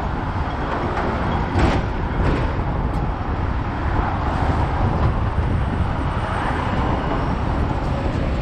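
Hong Kong double-decker electric tram running, heard on board: a steady low rumble with a few short knocks about two to three seconds in, with road traffic mixed in.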